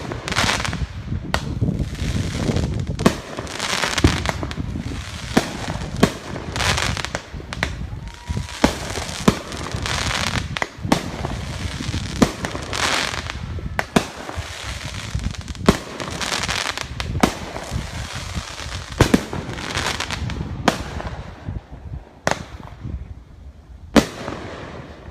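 Fireworks going off in a rapid barrage: many sharp bangs, about one a second and often closer, over a constant rush of noise from the bursts. The barrage thins out over the last few seconds, with a last bang near the end.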